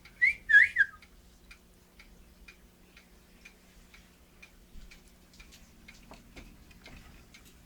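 Cockatiel giving a quick run of high, gliding whistled chirps in the first second, the loudest sound. Faint regular ticking follows, about two ticks a second.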